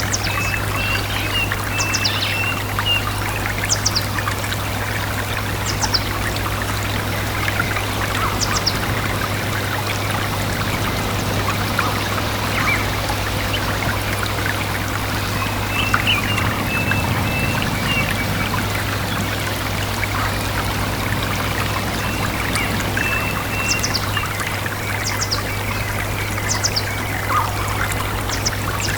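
A small stream trickling and splashing steadily, with birds giving short high chirps and brief trills a few times, at the start, in the middle and near the end.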